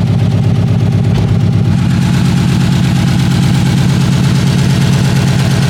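Subaru WRX's boxer four-cylinder engine idling with a miss: a misfire that the mechanic judges mechanical, a cylinder down, rather than a camshaft sensor fault.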